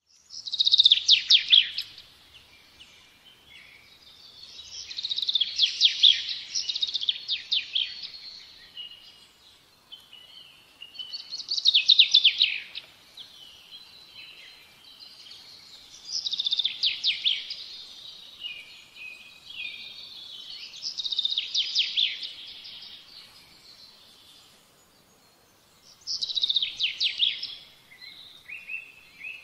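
A songbird singing: high phrases of about two seconds, each a fast trill falling in pitch, repeated roughly every five seconds, with softer twittering between them.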